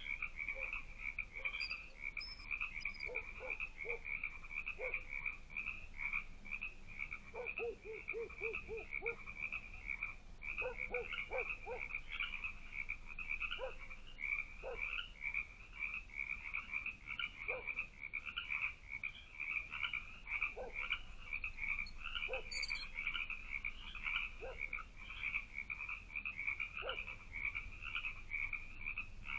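A chorus of frogs calling nonstop in dense, high, pulsing trills, with scattered shorter, lower calls among them.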